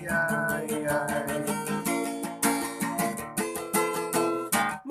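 Instrumental passage of a rock band song: guitar chords over a steady beat, with no singing.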